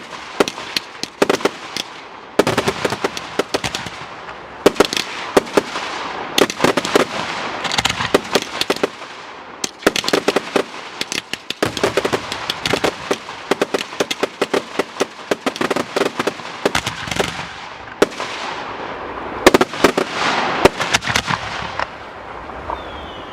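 Aerial fireworks bursting in rapid volleys of sharp bangs and crackles, with dense crackling between the reports.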